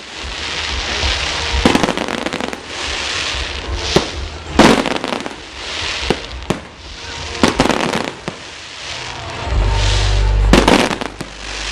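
Aerial fireworks shells bursting in a display: a string of sharp bangs every second or so, the loudest about halfway through, with crackling hiss from the burning stars between the bangs. A low rumble builds near the end.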